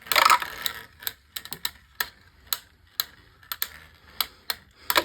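Beyblade Micros spinning tops battling in a plastic stadium: a rattling, scraping burst at the start, then sharp plastic clicks, about two a second, as the tops knock into each other and the stadium wall.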